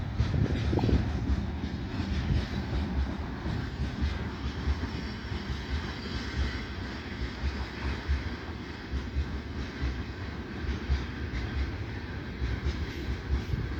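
A train running on rails: a steady rumble of wheels with many small irregular knocks.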